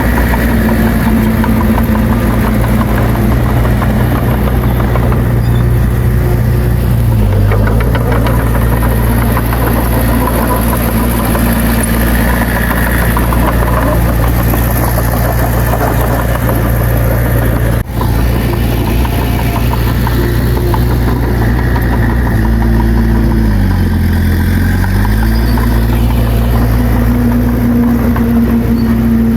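Bulldozer's diesel engine running steadily. A brief drop in the sound comes just past halfway, and near the end the engine speed dips for a couple of seconds, then recovers.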